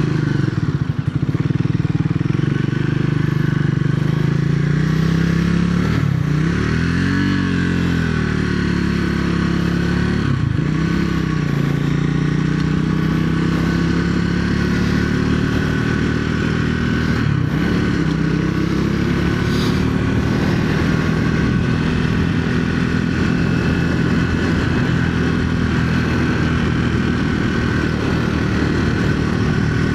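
2025 Triumph Speed 400's single-cylinder engine on the move. Its revs rise and drop sharply about three times in the first half, as it shifts gear, then climb slowly and settle into a steady cruise.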